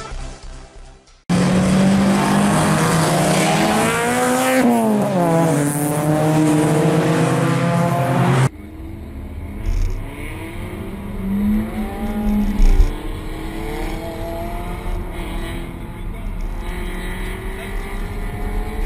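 A car engine revving hard for about seven seconds, its pitch rising and falling. It cuts sharply to the quieter in-car sound of a Peugeot 208 GTI's 1.6-litre turbocharged four-cylinder pulling away at low speed, its pitch climbing as it accelerates.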